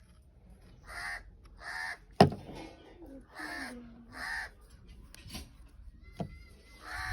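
A crow cawing five times, mostly in pairs of short hoarse caws, with a single sharp knock about two seconds in that is the loudest sound.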